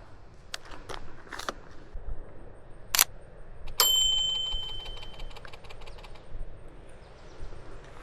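Mirrorless camera being worked: a few light clicks, then two sharp shutter clicks about three and four seconds in. The second is followed by a steady high tone with fast faint ticking for about a second and a half.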